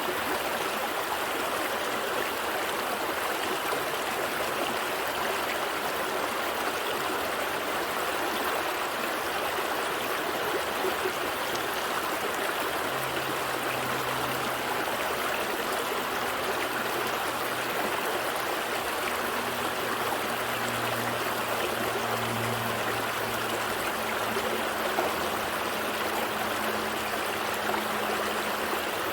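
Gentle stream flowing, a steady even rush and trickle of water over stones. A faint low hum joins about halfway through.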